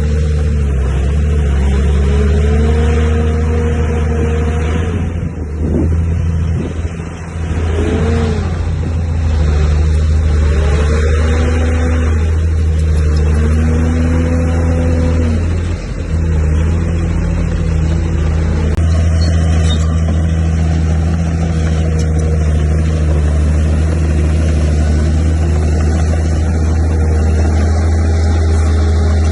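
Heavy diesel engine of an earthmoving machine running under load, its pitch rising and falling several times, with a short drop in level about six seconds in.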